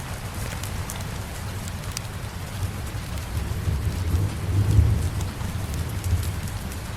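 Steady rain, with a low thunder rumble that swells and fades about four to five seconds in, and scattered faint clicks.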